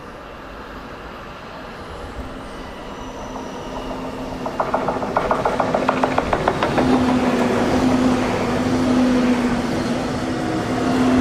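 Train approaching and passing: a rumble that grows louder, rapid evenly spaced clicking of wheels over rail joints about halfway through, and a steady low hum.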